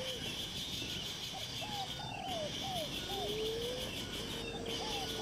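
Bird calls: runs of short arched whistled notes and longer, slowly gliding whistles, over a steady high-pitched insect drone.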